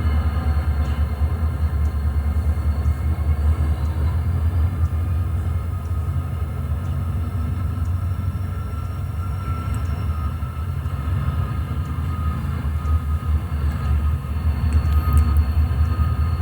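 HO scale model train running on the layout: a steady low rumble with scattered faint clicks.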